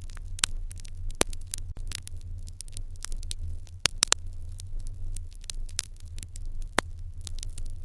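Fire crackling in an irori hearth: irregular sharp pops and snaps, several a second, over a steady low rumble.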